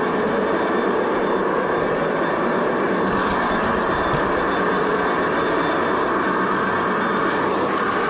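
G-scale model locomotive running along its track: a steady running noise of motor, gears and wheels on the rails, heard up close from a camera riding on the train, with a few faint clicks a few seconds in.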